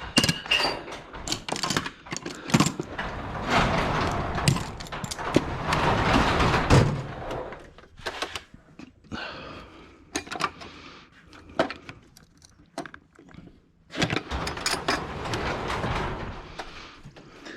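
Clanks, clicks and rattles of metal tools and parts being handled, with two longer stretches of scraping, rustling noise, a few seconds in and again near the end.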